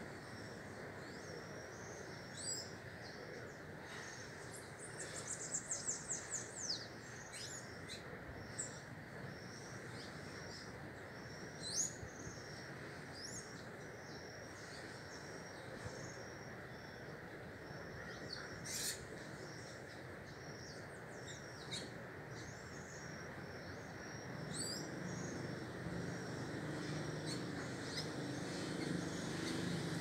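Several small birds chirping, with short, high calls scattered throughout and a quick run of falling notes about five seconds in, over steady background noise. A low vehicle rumble builds near the end.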